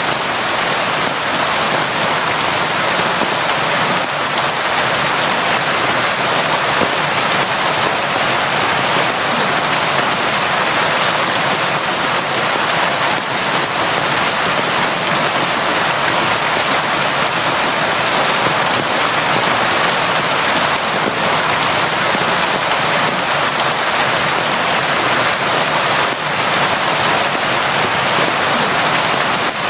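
Steady, heavy rain falling without a break, a dense even hiss of drops.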